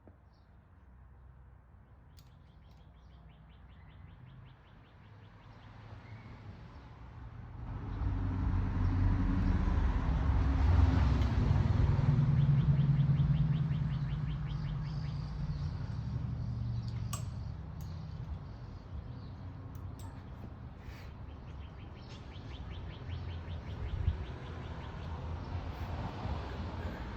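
Small birds twittering in quick repeated trills. An engine swells up about eight seconds in, is loudest a few seconds later, then slowly fades.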